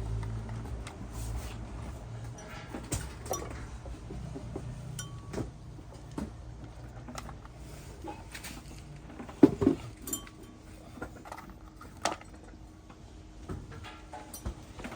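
Scattered metallic clinks and knocks, as of metal parts or tools being handled, the loudest about nine and a half seconds in. A low hum fades out in the first few seconds.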